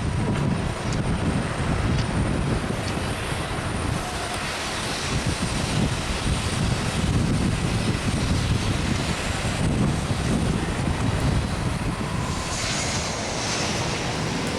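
Fixed-wing airplane engines heard from the ground as the plane climbs out after takeoff, a steady low rumble that eases slightly near the end.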